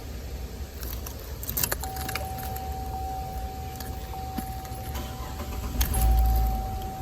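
Car key clicking and jangling in the ignition lock cylinder, with sharp metallic clicks, while a steady high tone sounds throughout, breaking off briefly. A low thump comes near the end.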